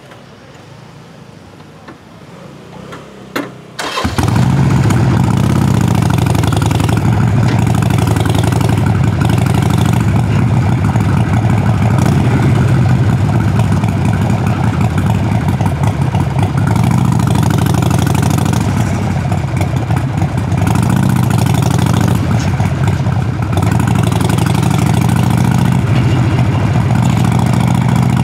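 Harley-Davidson Sportster Forty-Eight's V-twin engine being started: after a few quiet seconds and a couple of clicks, it fires about four seconds in and then runs steadily through its exhaust, with a few small rises in revs.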